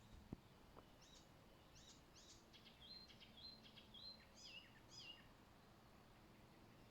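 A songbird sings one faint, quick phrase of high notes, some sliding downward and some short and level. A soft knock comes just before it.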